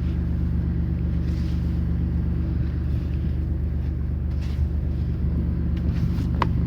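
Car engine idling with a steady low hum, with a light click shortly before the end.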